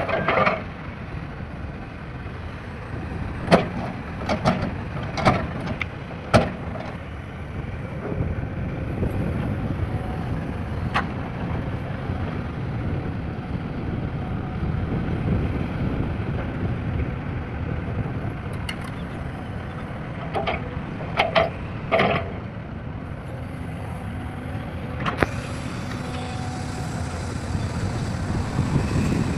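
Heavy diesel machinery, an excavator or dump truck, running with a steady low rumble, and sharp knocks at intervals, a cluster of them about four to six seconds in and another about twenty-one seconds in.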